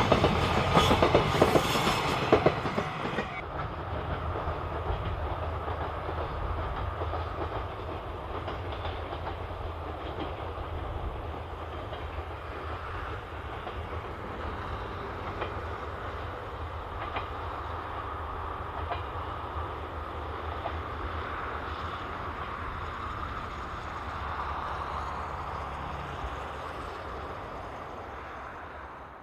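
A train passing on the rails, its wheels clattering loudly over rail joints for the first few seconds. A steadier, quieter rumble follows and dies away near the end.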